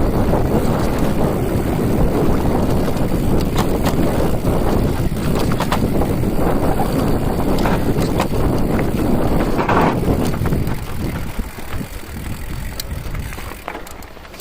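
Wind buffeting the microphone: a loud, low, steady rumble with scattered small knocks, easing off about eleven seconds in.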